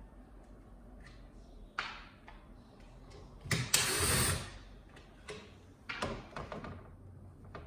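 Handling and working on the plastic parts of a flat-screen TV being taken apart: scattered clicks and knocks, with one louder scraping, rustling noise lasting about a second near the middle.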